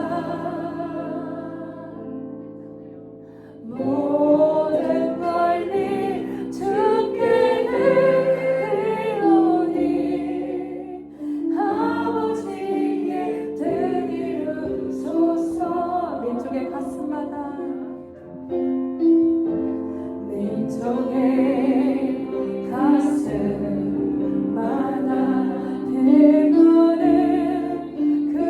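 Christian worship singing: a group of voices, female voices among them, with piano accompaniment. The music drops away briefly about three seconds in and again about eighteen seconds in, where one song gives way to the next.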